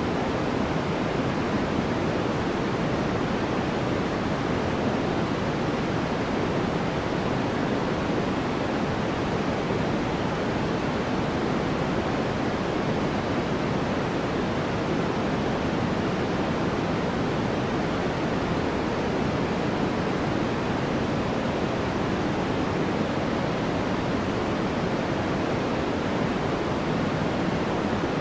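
Steady, unchanging sleep noise sold as white noise. It is weighted toward the low end, so it sounds like a soft, even rush rather than a bright hiss.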